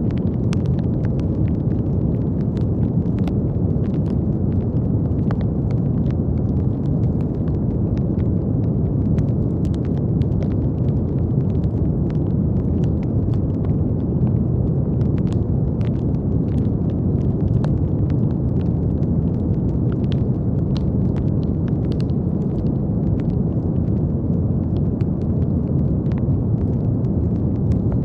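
Steady brown noise: an even, deep hiss weighted to the low end, holding one level throughout. Faint, irregular light crackles sit over it.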